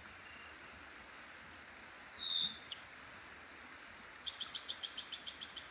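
Wild birds calling: one short call a little over two seconds in, then from about four seconds a quick run of evenly spaced notes, about seven a second, that slowly fades. Under them is a faint, steady background hiss.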